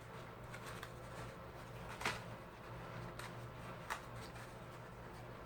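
Faint handling of a small paper gift box: a few short taps and rustles, the loudest about two seconds in, over a steady low hum.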